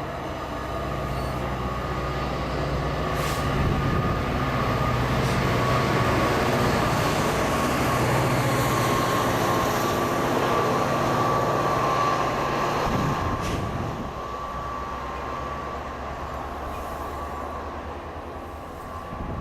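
Train rolling past: a low diesel engine hum and the noise of wheels on rail with a thin steady tone, building to its loudest in the middle, then dropping away at about 13 seconds.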